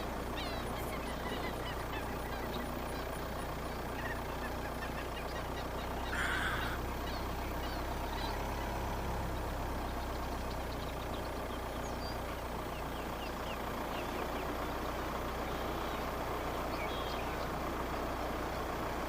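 Steady low rumble of a car driving slowly, with scattered faint bird chirps throughout and a louder bird call about six seconds in.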